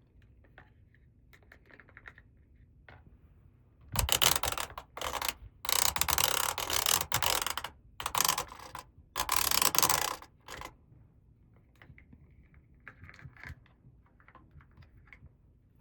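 Small plastic toys and packaging being handled: light clicks and taps, then a run of loud rustling from about four to ten seconds in, then more light clicks.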